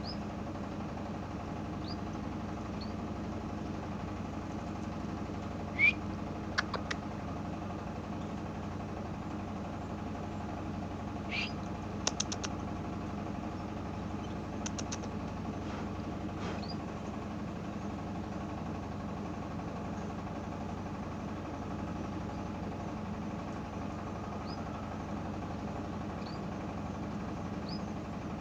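Canaries giving a few short, high chirps, the loudest about six seconds in and another about eleven seconds in, each followed by quick clicks, over a steady mechanical hum.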